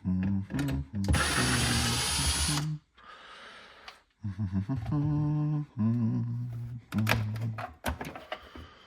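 Cordless drill/driver running in several short bursts to back out a screw, its motor whine stepping up and down in pitch, with a louder, hissier stretch about a second in.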